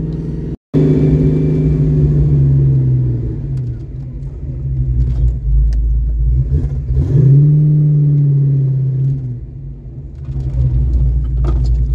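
1982 Ford Mustang GT's V8 engine running as the car drives, heard from inside the cabin, its pitch rising as it speeds up about seven seconds in and dropping off again near the end.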